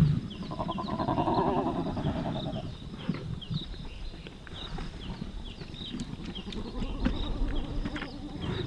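A lion calling: a drawn-out, pulsing growl lasting about two and a half seconds near the start, following a louder roar. Repeated short, high, falling chirps sound throughout, from insects or frogs.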